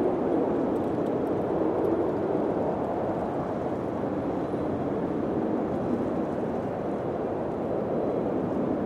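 Steady low wind rushing, swelling and easing slightly, with no distinct knocks or calls.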